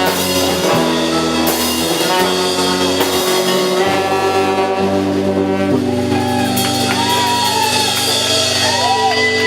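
Live band playing an instrumental passage, with a lead line of long notes that bend up and down in the second half.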